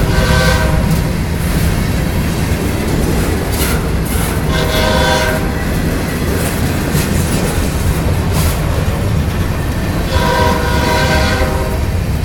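A GE ES44AC diesel locomotive sounds its air horn in three short blasts over the steady rumble of the running train. The first blast is at the start, the second about five seconds in, and the third near the end.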